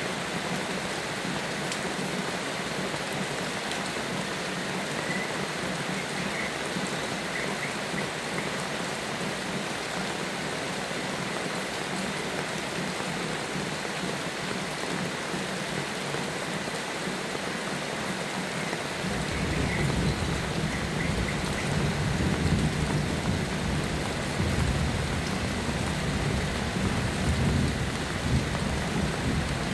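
Steady rain falling. About two-thirds of the way through, a long low thunder rumble rolls in and carries on to the end.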